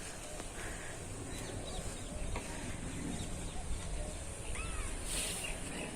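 A few short bird calls over steady outdoor background noise with a low rumble, and a brief hiss about five seconds in.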